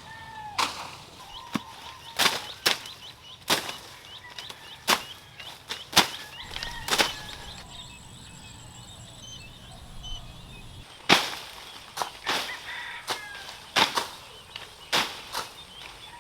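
A flock of African lovebirds in an aviary: sharp, sudden sounds at irregular intervals, about a dozen in all. Between them come quieter chirping calls that slide up and down in pitch.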